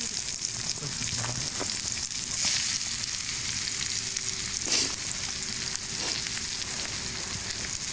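Food sizzling and frying in a cast iron pan over a campfire: a steady hiss with scattered crackles and a couple of louder pops.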